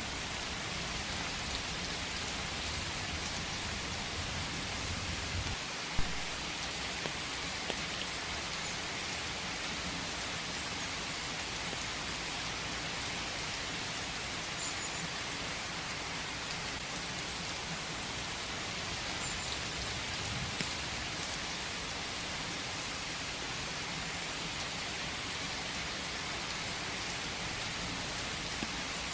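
Steady rain falling in a forest, an even hiss of drops, with one sharp knock about six seconds in.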